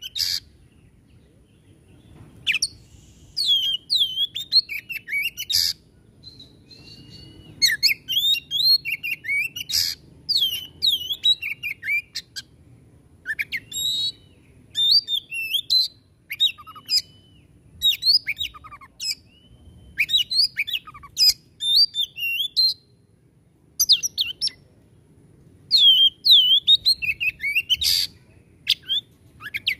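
Oriental magpie-robin (kacer) singing in fast bursts of varied whistled and chattering phrases, broken by loud, harsh rasping notes, the aggressive 'shooting' song of a bird in full voice. The bursts are separated by short pauses of a second or two.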